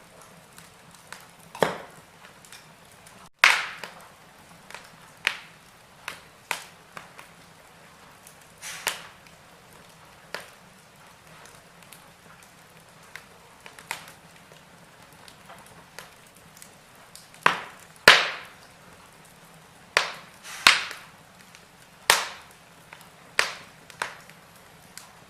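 Wood fire in a fireplace crackling: irregular sharp pops and snaps of burning logs over a faint steady background of the flames, with a cluster of louder pops in the second half.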